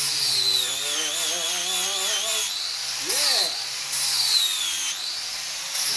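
Angle grinder grinding steel, its motor whine wavering in pitch as the disc is pressed into the work and eased off, with a brief dip and recovery about three seconds in.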